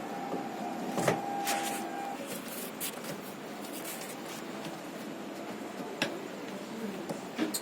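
Scattered sharp clicks and knocks of parts and tools being handled during washing-machine repair work, about five strikes in all over a steady background noise. A steady hum cuts off about two seconds in.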